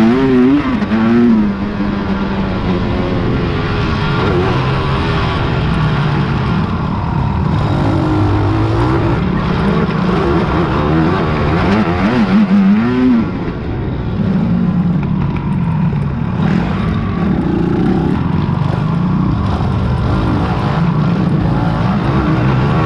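Racing quad (ATV) engines revving and passing during an off-road harescramble, the pitch climbing and dropping as the riders work the throttle, with sharp rev peaks at the start and about twelve seconds in.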